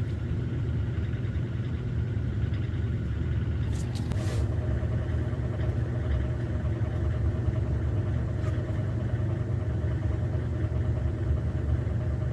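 A steady low, engine-like motor hum, with a short hiss about four seconds in.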